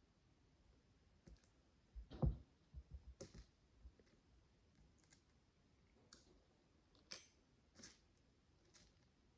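Tiny plastic micro building bricks clicking as they are handled and pressed together. A cluster of louder knocks and taps comes about two to four seconds in, then single sharp clicks every second or so.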